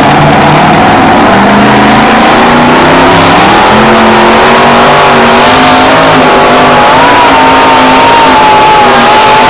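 Two-wheel-drive pulling truck's engine running loud and hard at high revs, its pitch climbing slowly.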